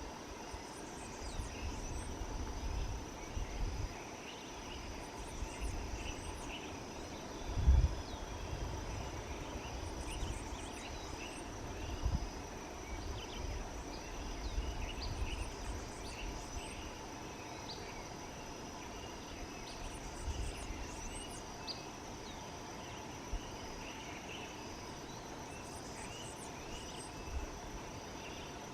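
Insect chorus with a steady high buzz, over which short high chirps come in clusters every few seconds. Low rumbling comes and goes, with one loud low thump about eight seconds in.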